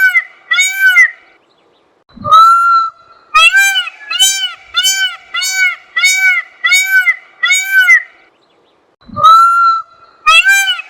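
Peacock (Indian peafowl) calling: loud, repeated honking calls, each short and arched in pitch, coming about one and a half a second. A first series stops about a second in; a new one starts at about two seconds and another near the end, each opening with a longer rising note.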